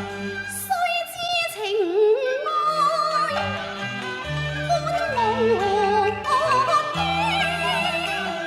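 Cantonese opera singing: a high, wavering melody with vibrato over instrumental accompaniment with held bass notes.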